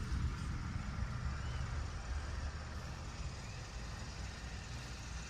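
A big flock of sparrows chattering together as a continuous blur of chirps, over a steady low rumble.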